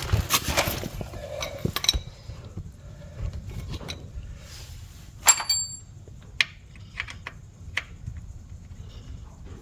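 Metal hand tools clinking and scraping during gearbox work, with one sharp ringing metal clink about five seconds in and a few lighter clicks after it.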